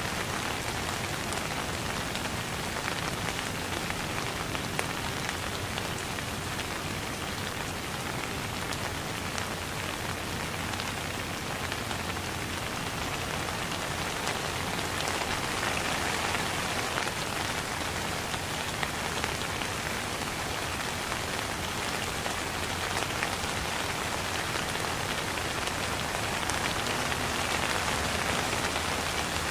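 Steady rain falling: a dense, even patter of many drops, with single drops ticking through it.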